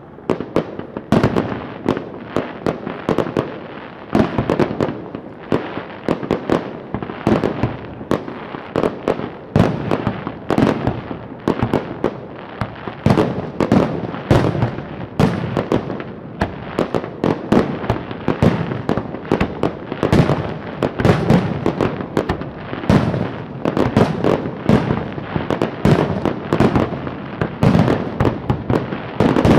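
Fireworks display: a rapid, continuous barrage of bangs and crackles, several a second, with no let-up.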